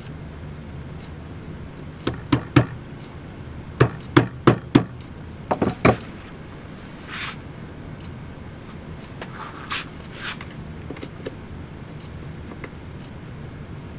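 Small hammer tapping nails into an antique wicker picnic basket: three sharp taps, a short pause, four taps, then three more, followed by a few softer scuffing sounds.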